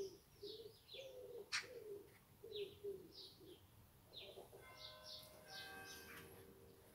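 Faint birdsong: a run of short, high, falling chirps about two a second, with lower notes under them for the first few seconds. A single click comes about a second and a half in, and a faint steady hum of several pitches joins about four and a half seconds in.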